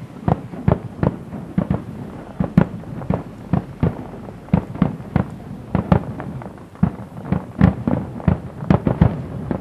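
Aerial firework shells bursting: a rapid, irregular string of sharp bangs, about two to three a second.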